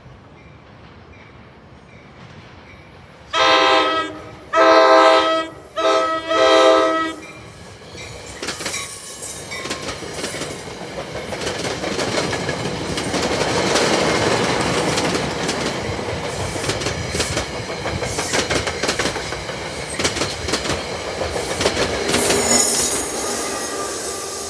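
NJ Transit push-pull train: the horn on the leading Comet V cab car sounds the grade-crossing signal, long, long, short, long, a few seconds in. Then the coaches roll past with steady wheel-on-rail clatter that builds and stays loud, and the ALP-46A electric locomotive pushing at the rear goes by near the end.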